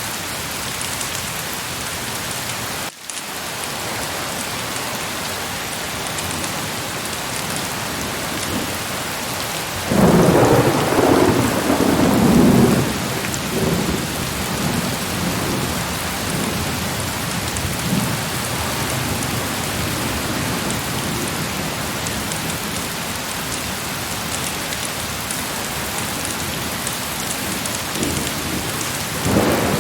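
Heavy rain falling with a steady hiss. About ten seconds in a thunderclap breaks loud and rumbles on for about three seconds, and another clap of thunder starts near the end.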